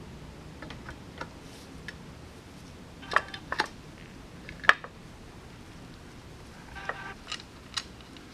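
Scattered sharp metallic clicks and clinks, a few ringing briefly, with the loudest a little past halfway, as small metal parts are handled.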